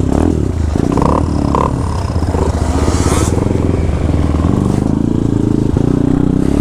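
Motorcycle engines running, among them the single-cylinder two-stroke engine of a Honda MTX125R.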